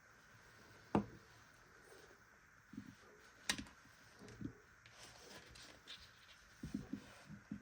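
Scattered light knocks and clicks of small objects being handled. The sharpest comes about a second in, and a quick cluster of them falls near the end.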